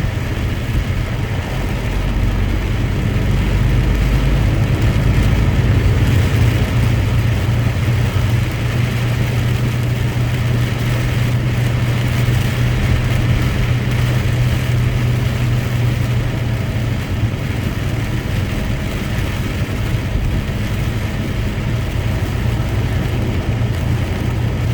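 A truck's engine running steadily, a constant low hum with a haze of road noise over it.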